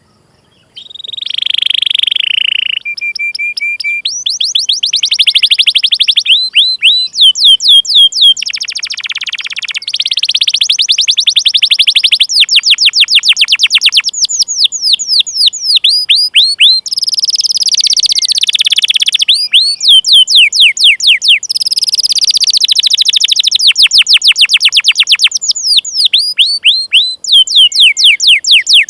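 Domestic canary singing: long series of rapid, high-pitched sweeping "cuit cuit" chirps alternating with fast rolling trills, starting after a brief pause about a second in.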